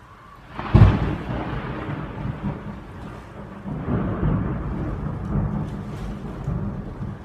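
Thunder from a lightning strike: a sudden loud crack about a second in, then a long rolling rumble that swells again around four seconds in and is still going at the end.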